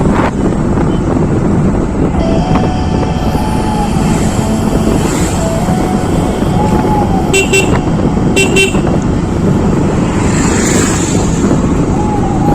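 Steady rumble of wind and road noise from riding in a moving vehicle, with two short horn beeps about a second apart past the middle.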